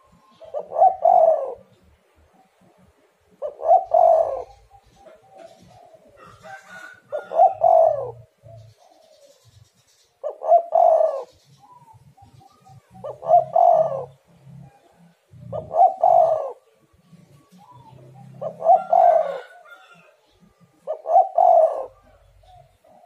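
Spotted dove cooing: a short coo phrase repeated at a steady pace, about every two and a half seconds, eight phrases in all.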